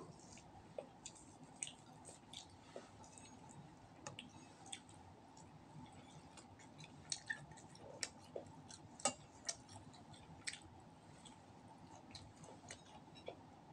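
Faint eating sounds from roast duck eaten by hand: chewing with many small, irregular clicks and smacks, over a low steady room hum.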